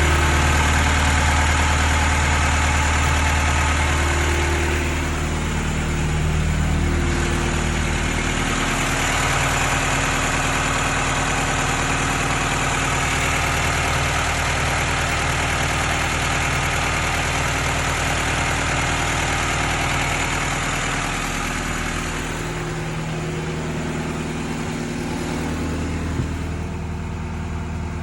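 Engine idling steadily, its pitch shifting slightly about five seconds in and again near the end, with a single faint click shortly before the end.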